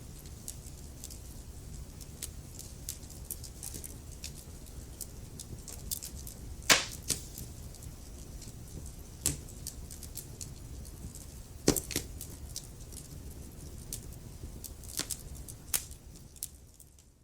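Wood fire burning in a fireplace: a steady low rumble of flames with irregular sharp crackles and pops, two of them loud, before the sound fades out near the end.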